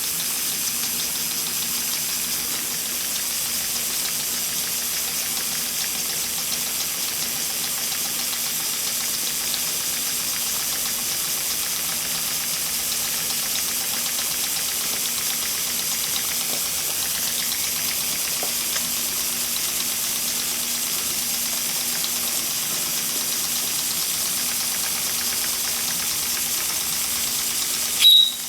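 Two small live steam engines, a 70-year-old Empire B43 and a 104-year-old engine, running together with a steady hiss and a constant low hum. A brief, loud, high-pitched sound cuts in right at the end.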